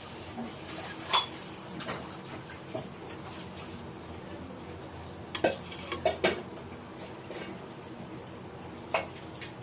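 Spoon and dish clinks: a handful of separate sharp clicks scattered through, the loudest clustered about five to six seconds in, as ingredients are spooned in for dough.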